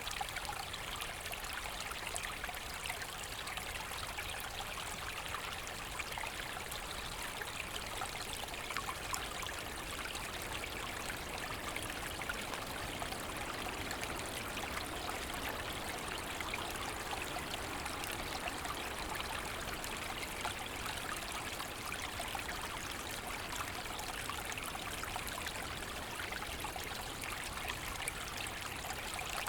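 Forest stream flowing steadily, water trickling and splashing over stones in an even, unbroken rush.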